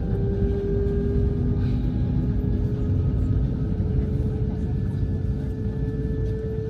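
Airbus A220-100 cabin noise heard from a window seat during pushback: a steady low rumble with a mid-pitched hum that slowly rises in pitch.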